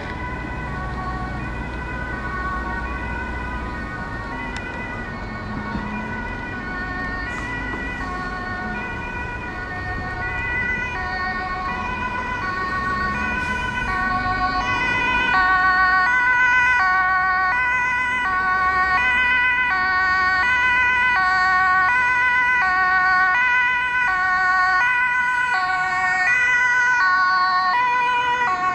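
German two-tone emergency vehicle sirens (Martinshorn) alternating between two pitches, more than one sounding at once, growing louder about halfway through as the vehicles come closer. A low engine rumble lies under the first half.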